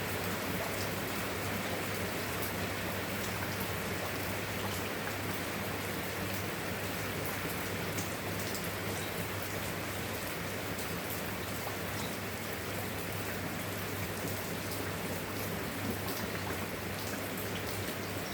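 Steady rain falling, with scattered individual drops ticking through the hiss, and a low steady hum underneath.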